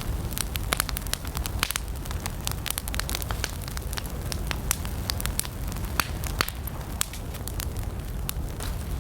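Wood campfire burning, with a steady low rumble of flames and frequent irregular sharp crackles and pops from the burning wood.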